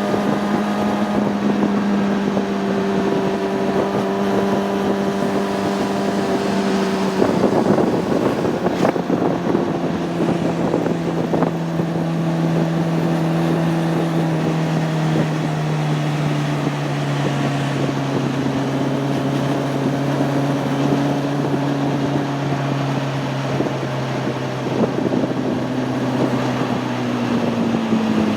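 Honda CB600F Hornet's inline-four engine running under way, with wind noise on the microphone. The engine note steps down about a quarter of the way in, then slowly falls lower, dropping off sharply at the very end.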